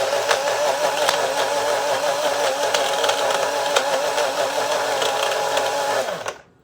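Electric blender motor running steadily while it mixes an ice-cream milkshake. It cuts off about six seconds in.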